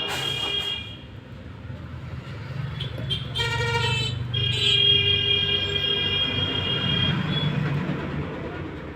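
Road traffic with vehicle horns honking: long held horn blasts, with a different, lower horn sounding briefly a little past three seconds in, over a steady rumble of engines.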